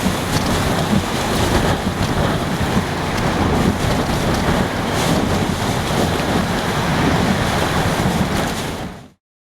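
Hurricane eyewall wind blowing hard and steadily, gusting and buffeting the microphone; the sound cuts off abruptly near the end.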